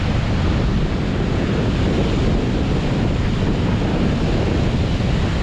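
North Sea surf breaking and washing on the beach close by, with wind buffeting the microphone in a low, fluctuating rumble.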